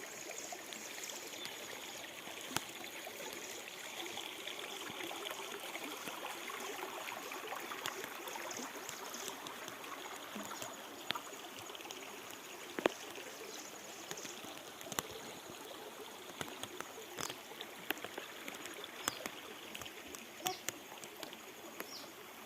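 Small river flowing over stones, a steady rush of water with scattered splashes and clicks.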